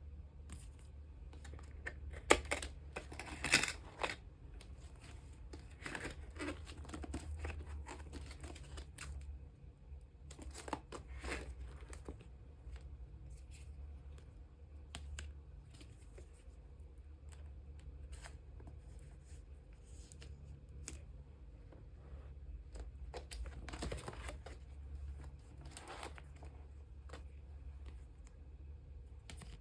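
Photocards being handled and slid into clear plastic sleeves: intermittent plastic rustling and crinkling, with a few sharp clicks and taps a few seconds in, over a steady low hum.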